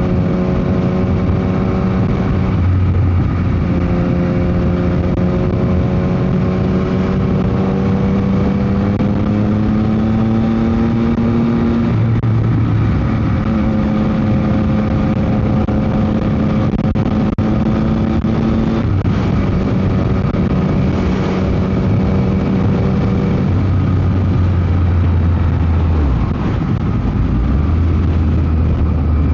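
Yamaha MT-09 SP's three-cylinder engine through a Dominator GP aftermarket exhaust, ridden at steady road revs. The note rises slowly for a while and drops out briefly a few times, over heavy wind noise on the microphone.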